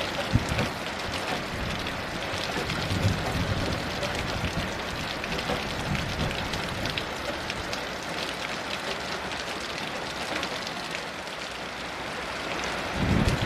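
Heavy, steady rain, with many individual drops striking close by. A low rumble of distant thunder swells in near the end.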